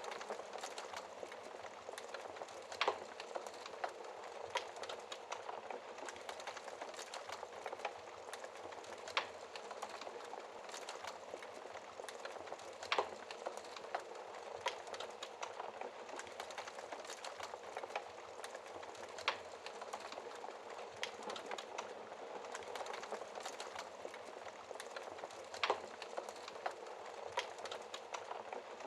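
Logs burning in a wood fireplace: a steady soft hiss of flame full of small crackles, with about five sharper pops spread through.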